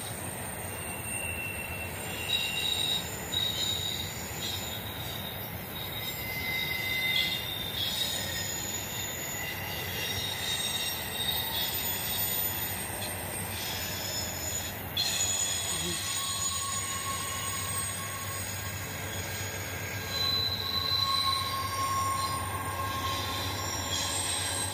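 Intermodal freight train of double-stacked containers rolling past: a steady rumble of steel wheels on rail, with high wheel squeals coming and going.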